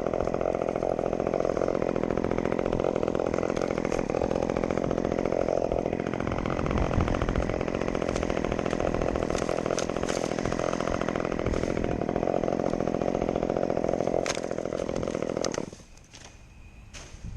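Chainsaw running steadily, then stopping abruptly near the end, after which a few faint clicks are heard.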